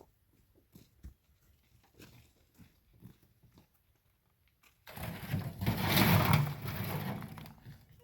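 Rocks and stones being moved: a few faint knocks, then about five seconds in a loud rough scraping and rumbling that lasts about three seconds.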